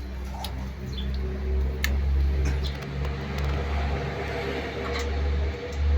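Electric water pump running with a steady low hum, with a few light clicks over it.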